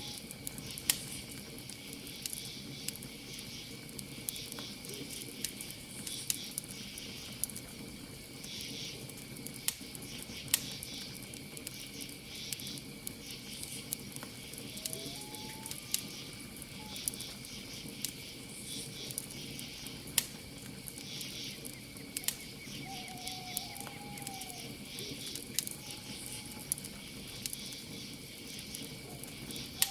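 Campfire crackling with frequent sharp pops, over a steady chorus of crickets trilling in a constant high note. A few short bird calls that rise and then fall come about halfway through and again near the end.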